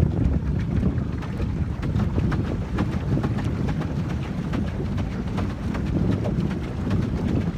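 Wind buffeting the microphone outdoors: a steady low rumble with many small crackles through it.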